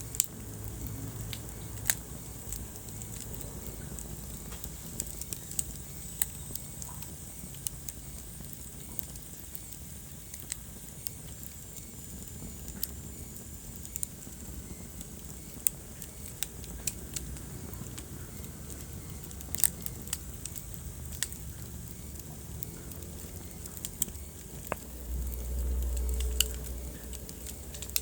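Wood fire crackling in a fireplace: sharp pops and snaps at irregular intervals over a steady low rumble of the flames. A louder low rumble swells for a couple of seconds near the end.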